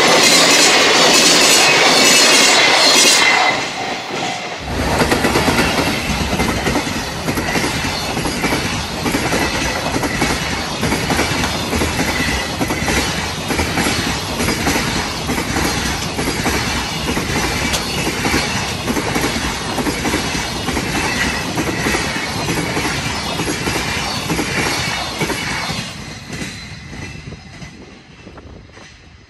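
Freight trains passing at speed, their wagon wheels clattering over rail joints in a fast, steady rhythm. About four and a half seconds in, the sound cuts to another passing train, whose clatter fades out near the end.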